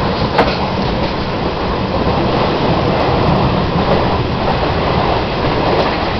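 Indian Railways passenger train running along the track, heard at an open barred carriage window: a steady loud rumble and rush of wheels on rails, with one sharp click about half a second in.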